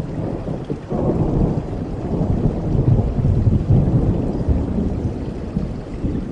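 Thunder rumbling low over steady rain; the rumble comes in sharply about a second in and goes on to the end.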